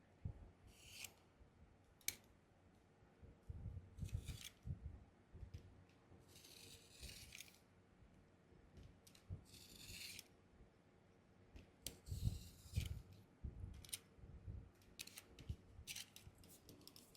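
Knife blade slicing through book board along a ruler, cutting it layer by layer: a series of faint scraping strokes, a couple drawn out for about a second, with light clicks and knocks between them.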